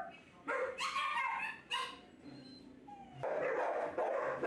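Dogs barking: a few separate barks in the first two seconds, then dense, continuous barking from about three seconds in.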